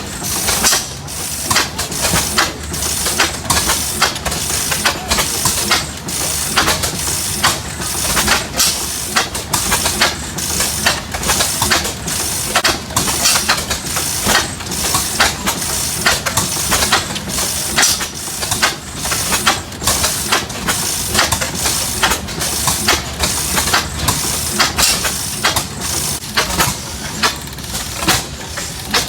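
Antique stationary gas engine running, its exhaust chuffing in sharp strokes about three to four times a second, a little uneven.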